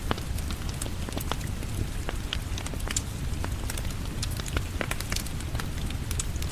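Rain falling steadily, mixed with a crackling wood fire: a continuous hiss and low rumble with frequent sharp pops and snaps.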